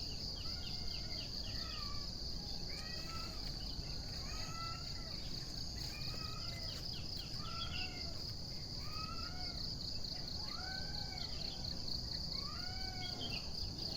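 Birds singing short arched whistled phrases, repeated every second or two, over a steady high-pitched insect trill.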